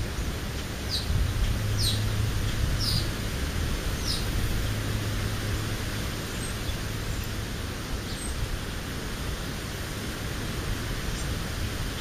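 A small bird gives four short, high chirps that slide downward, spaced about a second apart in the first few seconds, over steady outdoor background noise with a low hum.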